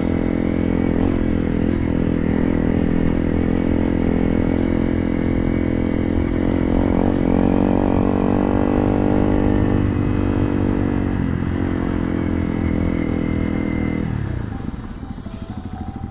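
Honda CRF300 Rally's single-cylinder engine running under way, revs rising and falling. Near the end the revs drop off and it runs on much quieter.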